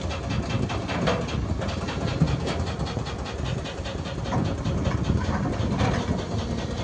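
Cat 316GC excavator's diesel engine running steadily, with a fast, even clatter of clicks over it.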